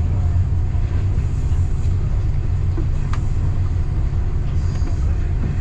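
Passenger train running along the line, a steady low rumble with a single sharp click about three seconds in.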